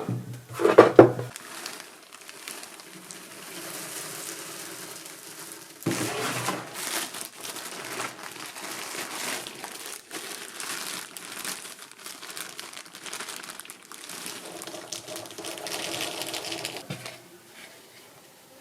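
Crinkling and rustling of wrapping being handled, with many small clicks and a louder stretch about six seconds in.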